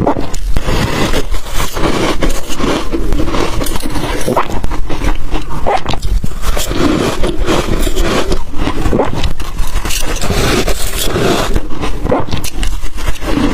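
Ice being bitten and chewed close to the microphone: a loud, unbroken run of crunches and cracks.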